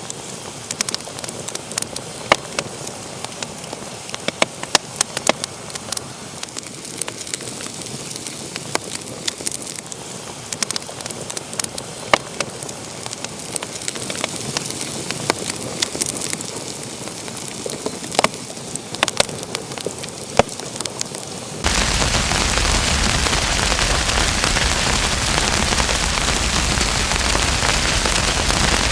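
Wood fire in a fireplace crackling, with frequent sharp pops over a soft hiss. About two-thirds of the way through it cuts abruptly to a louder, steady hiss with no pops.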